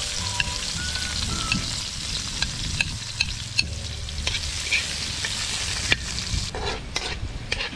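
Onions and garlic sizzling in hot oil in a kawali (Filipino wok), stirred with a spatula that clicks and scrapes against the pan.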